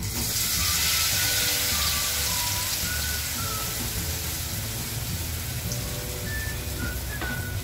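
A besan-battered bread slice sizzling in hot oil as it deep-fries into a bread pakoda. The hiss starts as it goes into the oil and is loudest about a second in, over light background music.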